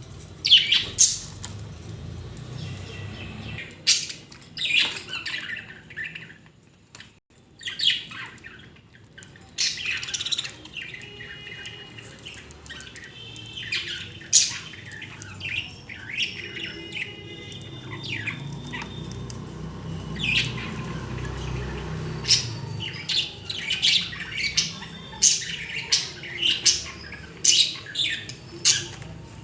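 Pet budgerigars chirping and squawking: many short sharp calls one after another, with a few longer warbled calls in the middle and a quicker run of calls near the end.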